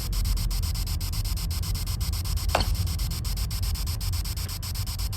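Rubbing and handling noise against the microphone over a low steady rumble, with one short sharp sound about two and a half seconds in.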